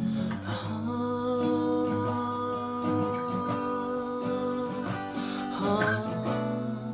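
Acoustic guitar music: strummed chords ringing on.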